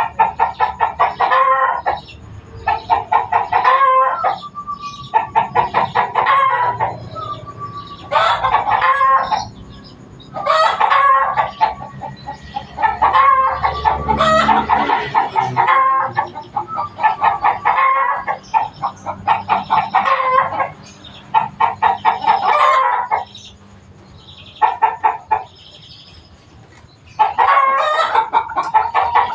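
Zebra doves (perkutut) singing: repeated phrases of rapid staccato coos, each phrase a second or two long, with short pauses between them.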